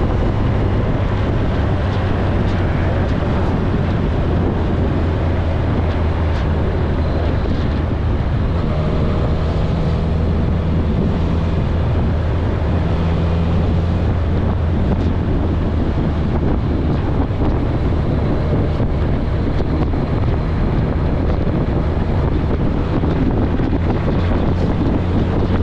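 Kawasaki ZRX1100's inline-four engine running at a steady cruise, a low even drone, under heavy wind noise buffeting the camera microphone.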